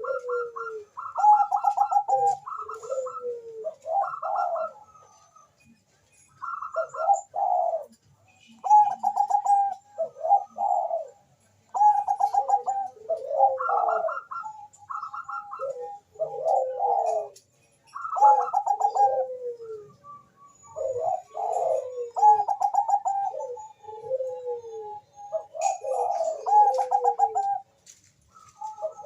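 Zebra dove of the Bangkok song type (perkutut bangkok) singing: rapid, repeated cooing phrases, each a quick trill running into a falling coo, with short breaks between runs. Faint high chirps sound above it.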